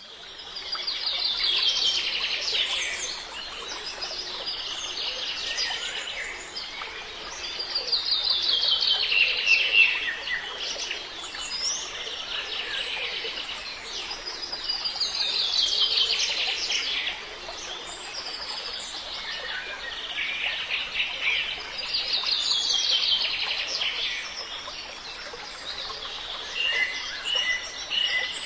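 A songbird singing the same phrase over and over: a quick run of notes falling in pitch, repeated about every six to seven seconds, above a faint steady hiss.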